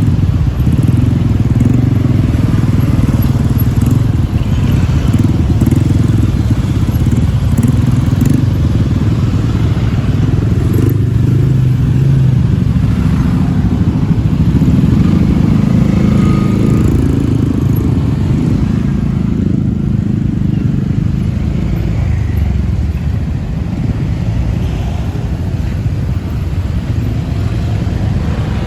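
Busy city road traffic dominated by motorbikes, with cars mixed in: a continuous engine rumble that swells and eases as vehicles pass.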